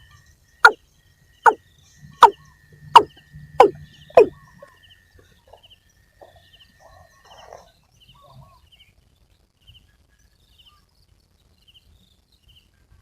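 A water cock calling: six loud, short notes, each dropping in pitch, under a second apart, stopping about four seconds in. Faint, regular high chirping goes on underneath.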